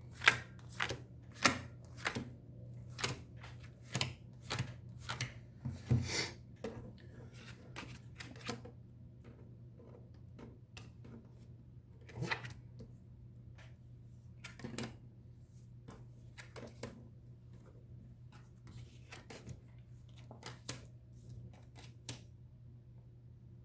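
Tarot cards being shuffled and handled, a run of sharp snaps and taps of the cards. They come quickly in the first several seconds, then more sparsely, over a steady low hum.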